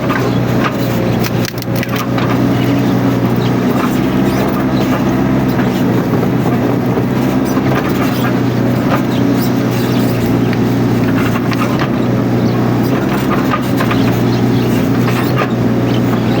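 Mini excavator's diesel engine running steadily under load, with scattered short clicks and cracks over it.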